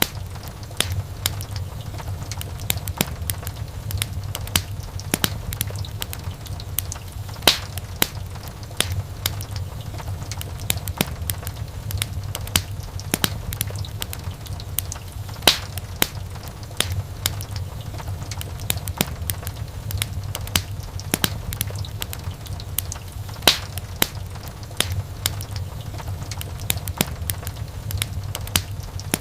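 Wood fire crackling in a fireplace: irregular sharp pops and snaps, a few louder than the rest, over a steady low hum.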